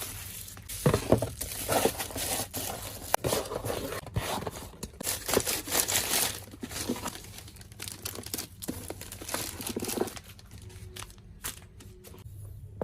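Tape being pulled and torn and plastic packaging crinkling under the hands, in uneven bursts that go quieter for the last couple of seconds.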